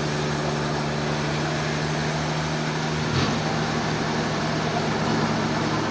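Steady engine hum of sawmill machinery running, with a short knock about three seconds in where the hum shifts slightly in pitch.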